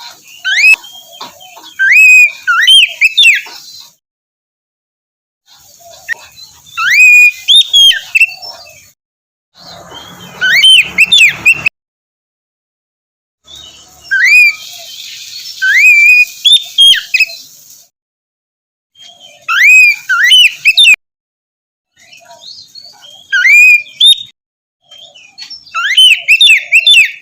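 Oriental magpie-robin (kacer) singing in loud phrases of whistled notes that sweep up and down. The phrases last a few seconds each and are separated by short silences. One phrase near the middle has a rough, rasping sound under the whistles.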